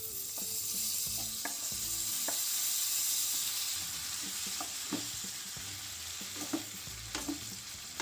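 Chopped tomatoes sizzling as they go into hot mustard oil with frying green chillies; the sizzle swells about a second in and then eases. A wooden spatula stirring gives scattered light knocks against the pan.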